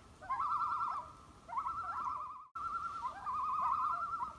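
A bird calling: a wavering, quavering call that swoops up at the start of each phrase, repeated several times. It cuts out abruptly for an instant about two and a half seconds in.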